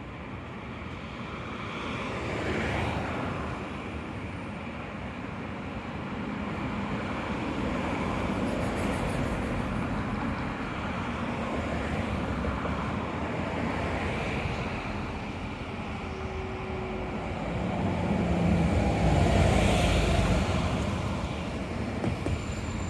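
Road traffic going by, several cars passing one after another with slow swells of tyre and engine noise, the loudest passing near the end.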